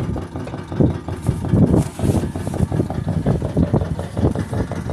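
Strong wind buffeting the microphone: an uneven, gusty low rumble.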